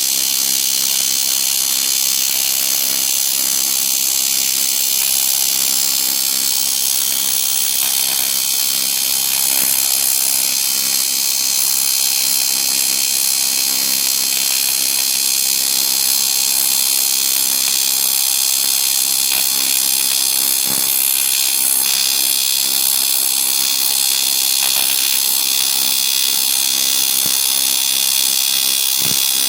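AC TIG welding arc on aluminium, run at about 74 amps, giving a steady, unbroken buzz with hiss over the whole stretch.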